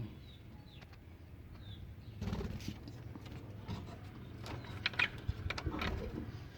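Faint scattered taps and clicks with a couple of short bird chirps, from pet birds moving about their coops.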